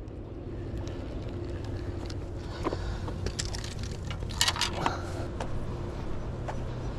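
Steady low outdoor background rumble with a faint hum, broken by a few sharp clicks and a quick rattle about four and a half seconds in.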